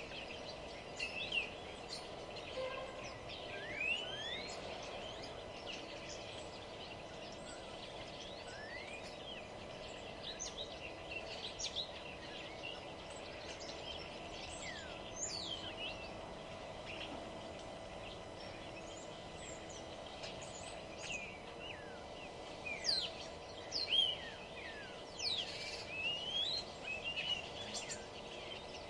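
Several songbirds chirping and singing, overlapping short rising and falling whistles and chips, busiest in the last several seconds, over a steady low background hum.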